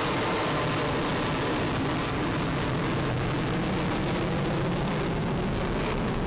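Loud, steady jet noise from a Lockheed Martin F-35C's Pratt & Whitney F135 turbofan engine in flight.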